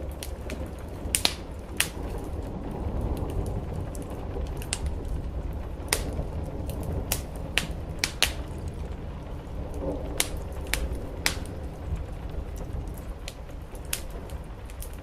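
Wood fire crackling, with sharp pops at irregular intervals, over the steady hiss and low rumble of rain on a roof.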